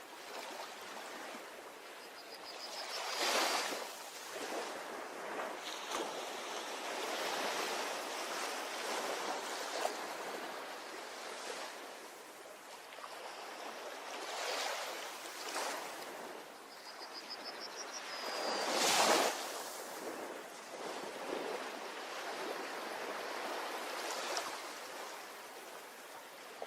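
Ocean waves washing onto a beach: a steady wash of surf, with a bigger wave breaking about three seconds in and another near nineteen seconds, each swelling up and falling away.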